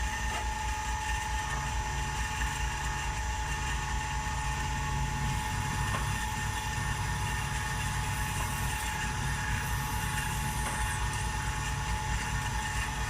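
Machine tool running steadily, a low motor hum with a constant high whine over it and a few faint ticks. It fits a milling machine spindle at work.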